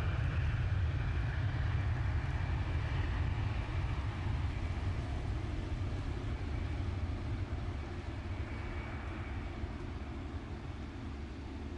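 Jet airliner engines rumbling deep and steady, slowly fading, with a faint high whine that dies away.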